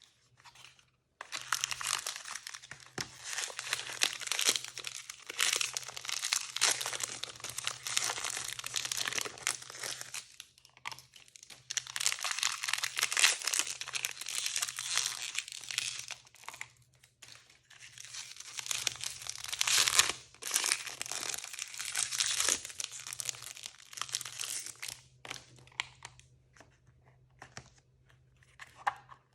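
Toy packaging being torn open and crinkled by hand: long stretches of dense crinkling and tearing, a short break about 16 seconds in, then only scattered rustles near the end.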